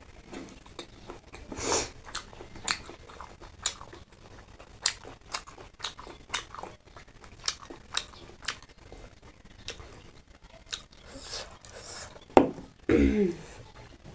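A person eating close to the microphone: chewing and biting, with a sharp smack or crunch about once a second. Near the end comes a louder knock, then a brief voiced sound like a hum.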